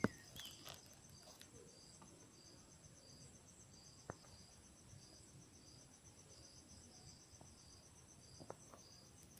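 Faint chirping of crickets: a high chirp repeating about every half second over a steady, faster high trill. A sharp click sounds at the very start and a lighter one about four seconds in.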